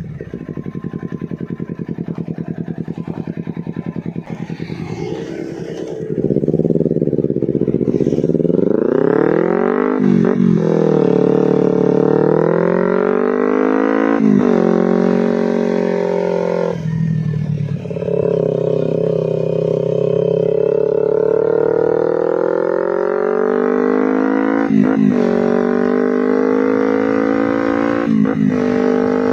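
A Kawasaki Ninja 250 FI's two-cylinder four-stroke engine, breathing through a Termignoni slip-on silencer. It runs at low revs for the first few seconds, then gets louder and revs up through a series of upshifts, each marked by a short drop in pitch. In the later part it holds fairly steady revs.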